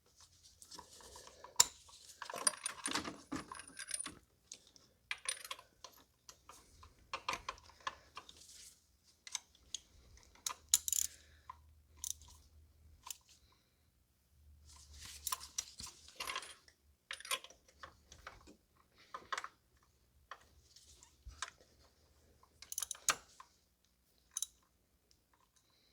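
Irregular metallic clicks and clinks of hand tools being handled: a spark plug socket and ratchet knocking and rattling against metal parts of the engine.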